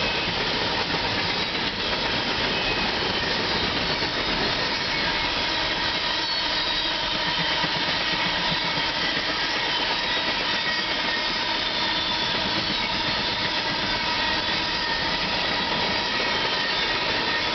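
Norfolk Southern empty coal train rolling past, a steady noise of steel wheels on rail with a few faint high steady tones.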